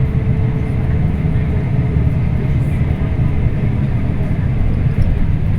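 Scania K340IB bus running steadily on the move, a constant low engine drone with road noise, heard on board.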